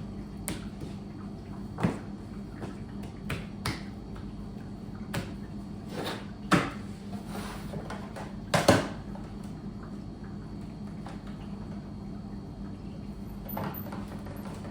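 Scattered knocks and clunks of things being set down and handled, about ten in all, the loudest two a little past the middle, over a steady low electrical hum.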